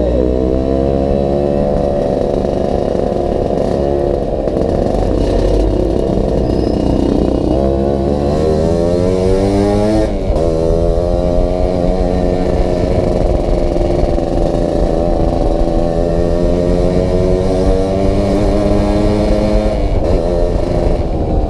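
Yamaha RX-King single-cylinder two-stroke motorcycle engine running under load while being ridden. The revs rise and fall through the gears, with a sharp drop in pitch at a gear change about ten seconds in, then hold fairly steady.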